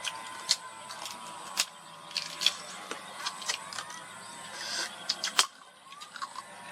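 Irregular sharp cracks and clicks, several a second: crab shell being cracked and crunched while eating, over a faint steady wavering tone. The loudest crack comes about five and a half seconds in.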